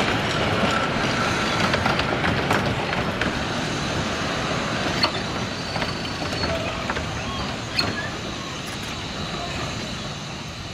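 Miniature-railway coaches rolling slowly past on 15-inch-gauge track, a steady rumble from the wheels on the rails with occasional sharp clicks, gradually fading.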